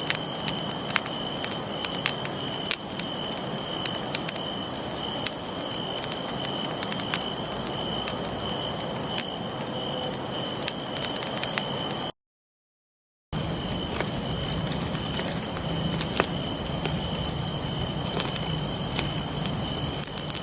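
Campfire crackling with frequent small sharp pops, over a steady high trill of night insects such as crickets. The audio cuts out completely for about a second midway.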